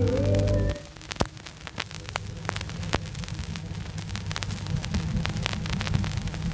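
The final note of the music cuts off about a second in, leaving a 78 rpm record's surface noise: crackle and scattered clicks over a low hum as the record plays on past the music.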